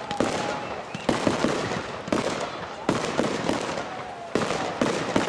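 Display fireworks bursting: a run of sharp bangs, one or two a second, some in quick pairs, each trailing off in a rolling echo.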